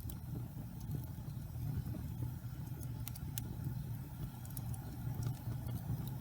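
Wood fire crackling in a fireplace: a few sharp pops about halfway through and again near the end, over a steady low rumble.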